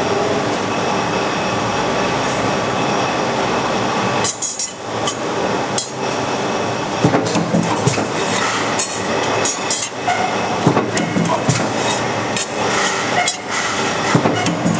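A train running past, a steady noise with irregular metallic clanks.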